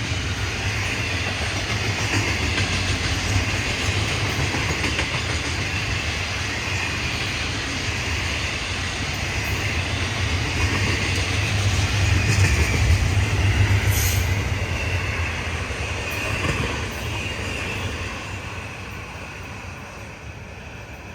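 Freight cars of Florida East Coast train 101 rolling past, with steel wheels rumbling and clicking over the rail and a light wheel squeal. The sound fades over the last few seconds.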